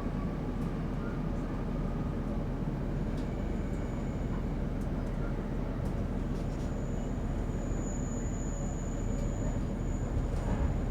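Class 156 Sprinter diesel multiple unit on the move, heard aboard: a steady rumble of engine and wheels on the rails. A thin high-pitched whistle rises over it briefly, then again for the last few seconds.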